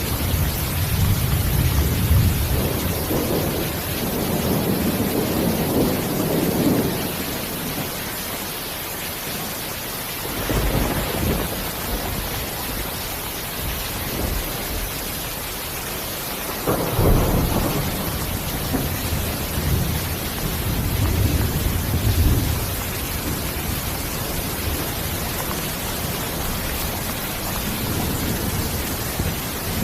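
Steady rain hissing without a break, under repeated rolls of thunder: low rumbling in the first several seconds, a sudden rumble about ten seconds in, and the loudest peal starting sharply a little past halfway, followed by more rumbling.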